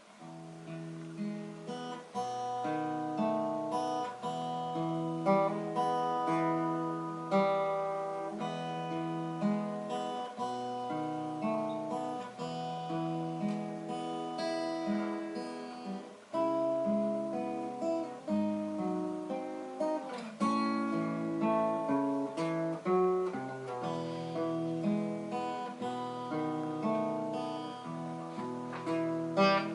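Solo acoustic guitar playing an instrumental introduction, picking and strumming a repeating chord pattern over a moving bass line.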